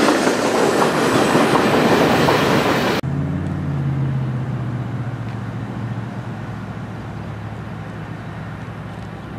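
Freight cars of a Norfolk Southern train, tank cars and covered hoppers, rolling past at speed with loud wheel and rail noise, cut off abruptly about three seconds in. After that, a much quieter low steady hum that slowly fades.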